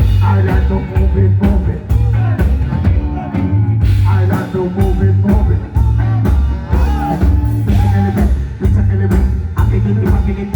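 Rock band playing live, with a singer over a steady drum beat and a heavy bass line.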